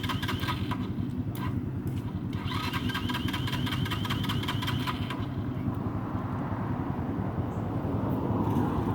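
Dirt bike engine running steadily at idle. A high, rapidly ticking whine rides over it and cuts in and out during the first five seconds.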